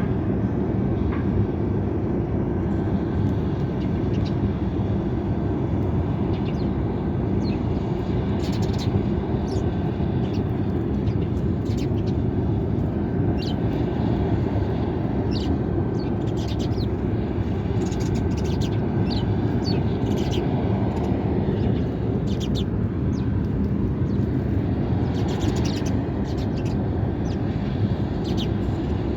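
Sparrows chirping in short, scattered high notes, busiest in the middle and near the end, over a steady low rumble.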